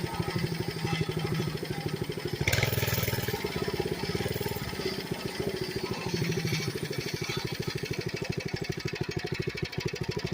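Mini bike's small engine running with a rapid, even putter, with a brief louder surge about two and a half seconds in.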